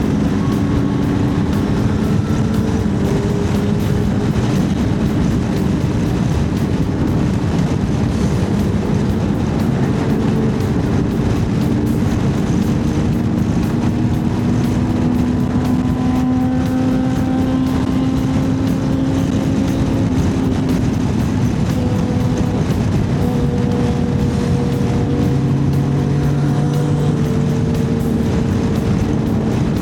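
Honda CB1100's air-cooled inline-four engine running on the move under heavy wind rush, its pitch drifting slowly up and down with road speed.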